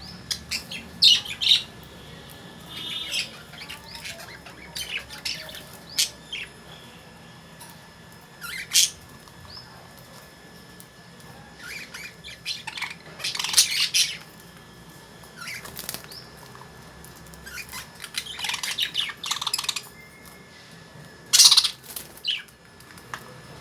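Caged lovebirds chirping and squawking in short, scattered bursts, with some wing flapping.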